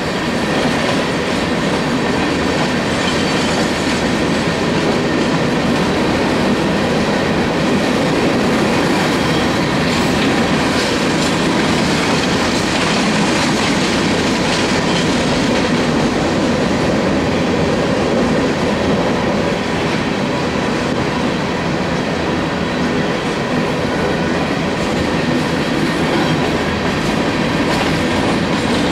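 Coal hopper cars of a freight train rolling past: a steady rumble of steel wheels on rail, with clacking as the wheels cross rail joints.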